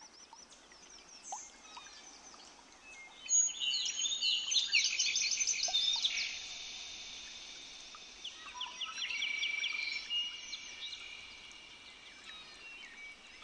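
Songbirds singing: two spells of rapid, high chirping trills, the first about three seconds in and the second about eight seconds in, over faint outdoor background noise.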